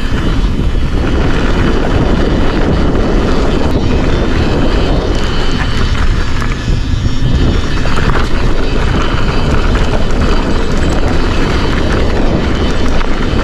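Wind rushing over the camera microphone and the tyres rolling on a dirt trail as a Forbidden Dreadnought mountain bike descends at speed, a steady loud rush with scattered small clicks and rattles from the bike.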